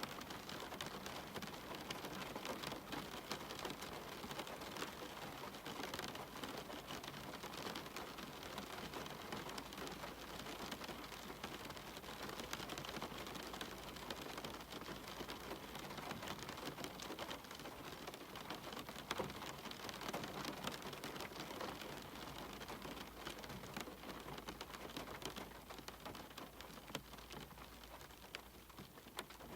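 Steady rain falling, with many individual drops ticking and pattering on hard surfaces close by.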